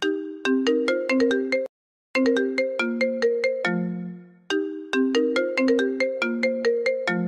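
iPhone ringtone playing on loop: a short melody of quick pitched notes that repeats, each phrase ending on a lower held note. About two seconds in, the sound drops out briefly before the melody starts again.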